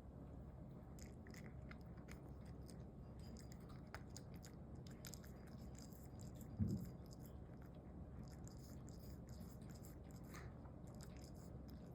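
A cat chewing quietly, faint crisp crunching clicks over a low background hum, with one short low thump about two-thirds of the way in.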